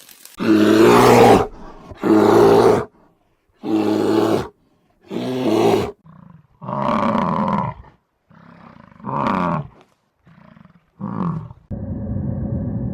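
A large animal roaring in a series of about seven deep calls, each about a second long, getting shorter and weaker toward the end.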